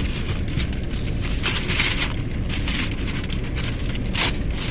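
Steady low rumble inside a car, with irregular short bursts of hiss or crackle over it.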